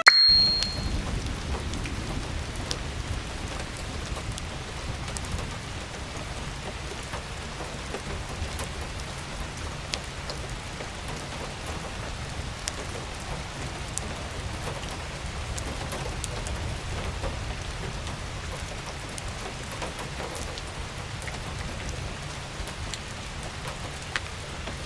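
Steady rain falling, with scattered sharper drop ticks over an even hiss and a steady low rumble underneath.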